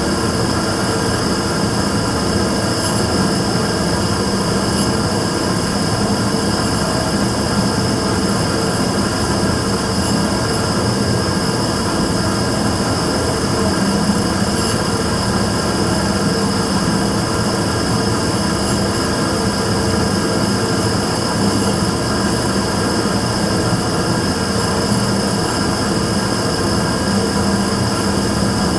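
Immersion tube burner running steadily, a loud even rush of noise with a low hum and a high whine held constant throughout. This is the abnormal noise (異音) the burner is making.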